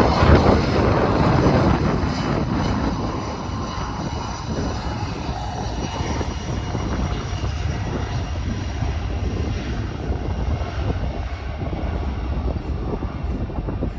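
Jet engines of a regional jet, which the spotter takes for a SkyWest CRJ-200, running at high power. It is loudest in the first two seconds, then settles to a steady, lower level. Wind buffets the microphone underneath.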